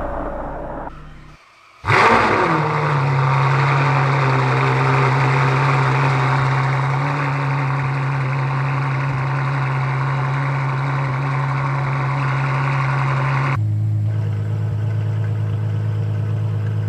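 Ferrari F12 Berlinetta's V12 cold-starting through a free-flow X-pipe exhaust: it fires suddenly about two seconds in with a brief flare, then holds a steady high cold idle, and the idle drops to a lower, deeper note near the end.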